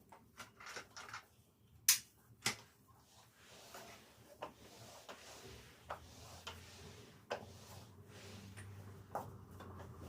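A series of light, scattered clicks and knocks, the two sharpest about two seconds in, with a faint low hum in the second half.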